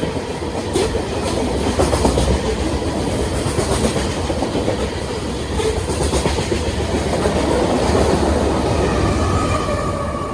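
Covered hopper cars of a Union Pacific grain train rolling past, steel wheels clicking over the rail joints in a steady run.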